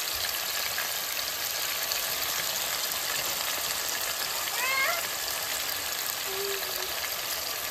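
Meatballs shallow-frying in hot oil in a nonstick pan: a steady sizzle. About five seconds in a short high-pitched call rises and falls over it.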